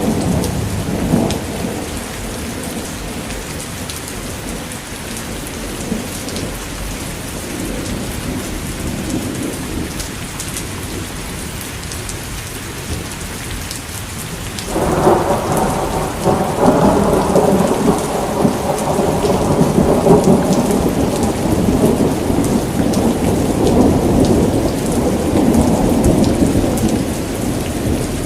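Thunderstorm: rain falling steadily, with thunder. About halfway through a sudden, louder roll of thunder breaks in and rumbles on.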